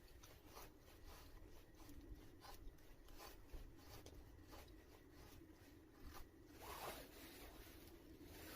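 Near silence, with faint scattered clicks and a soft rustle about seven seconds in.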